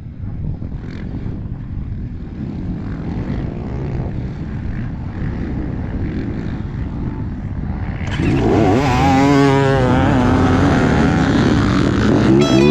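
Motocross dirt bike engines running as a low, steady drone. About eight seconds in, the sound gets louder and clearer as bikes rev, their pitch sweeping up and down.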